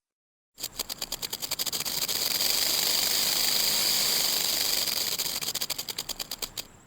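An animal sound: a fast rattle of clicks that quickens into a continuous buzz and slows back into separate clicks before stopping.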